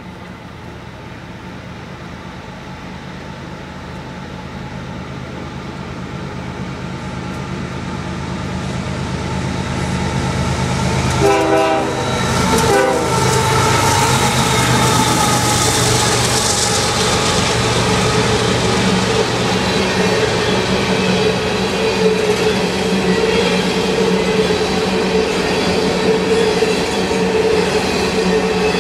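BNSF diesel locomotives hauling a coal train, growing steadily louder as they approach, with a short horn blast about eleven seconds in as they reach the crossing. Then come the steady noise of coal hopper cars' wheels rolling past on the rails.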